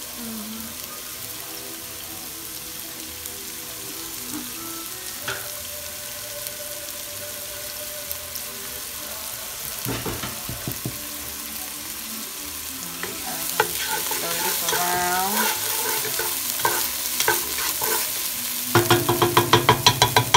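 Diced onions and bell peppers sizzling in olive oil in a nonstick pan, the frying growing louder a little past the middle. Near the end a wooden spoon stirs and scrapes across the pan in quick repeated strokes.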